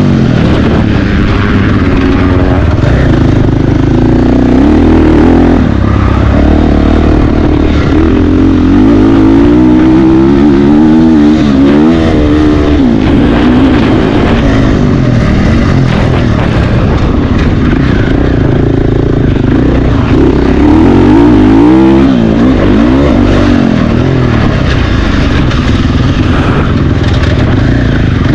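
Several motocross bikes racing, their engines revving up and down, with overlapping rising and falling pitches throughout.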